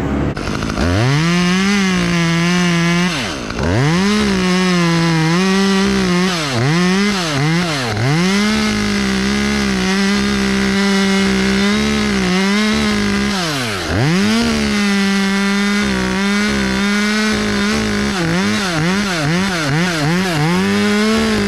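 Two-stroke chainsaw cutting through a white oak limb at full throttle, its pitch dipping and recovering again and again as the throttle is feathered and the chain loads in the wood. It drops back to low revs twice, about 3 and 14 seconds in, and winds down at the end.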